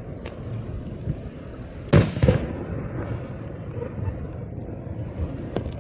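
Aerial firework shells bursting: one loud boom about two seconds in, a second smaller hit right after it, and scattered small pops over a low rumble, the pops coming thicker near the end.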